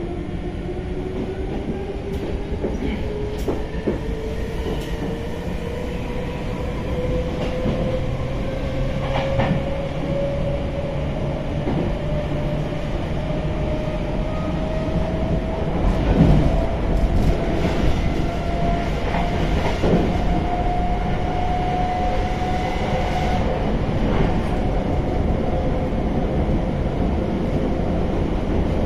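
MI84 electric multiple unit heard from inside the car while it accelerates: a motor whine rises steadily in pitch for about twenty seconds, then levels off. Under it runs a steady wheel-on-rail rumble with a few sharp knocks.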